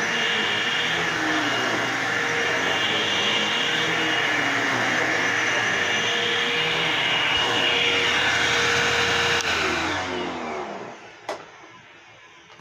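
Upright vacuum cleaner running steadily with a motor whine, then switched off about nine seconds in, its motor spinning down with a falling pitch. It sounds a little clogged or something to its owner, a sign of a partial blockage in the airflow.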